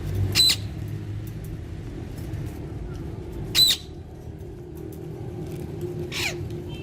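Alexandrine parakeet giving two loud, short, shrill squawks a few seconds apart, with a fainter call near the end, over a steady low background rumble.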